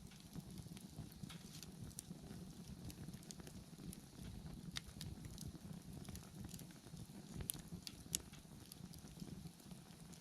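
Wood bonfire burning: a steady low rush of flame with scattered crackles and small pops, two of them sharper about seven and a half and eight seconds in.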